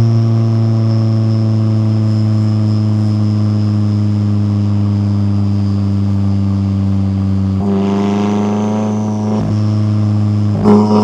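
McLaren 570S twin-turbo V8 exhaust droning at a steady engine speed while cruising. The note swells briefly about eight seconds in and again just before the end as the throttle changes.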